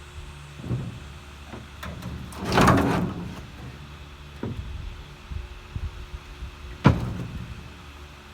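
Handling of a cut-up steel pickup bed: a scraping rattle lasting about a second, then lighter knocks, and a single sharp bang near the end.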